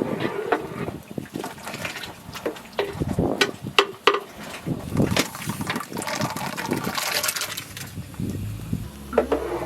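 Water being handled in a container, sloshing and splashing, with irregular clinks and knocks.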